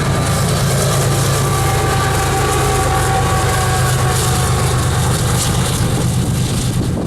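BNSF unit freight train of covered hopper cars rolling past, its wheels clacking over the rails over a steady low drone. A faint thin whine comes and goes in the middle.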